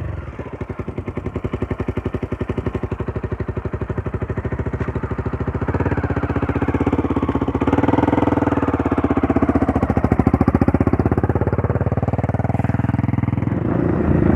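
Trail motorcycle engine running at low, steady revs while towing a broken-down motorcycle on a rope, the revs and loudness rising a little about six and eight seconds in and again near the end.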